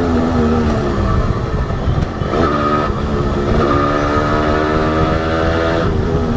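Honda H100S two-stroke motorcycle engine running under way, its revs falling at first. About two and a half seconds in it rises briefly, then climbs slowly and steadily, and near the end the revs drop again, as at a gear change.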